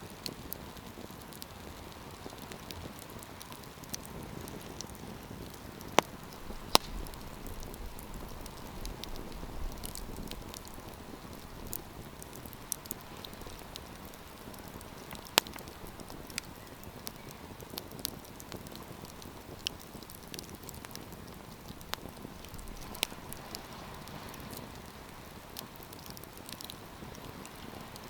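Wood campfire crackling: a steady soft hiss of burning with scattered sharp pops and snaps, the loudest a few around six to seven seconds in and again near fifteen seconds.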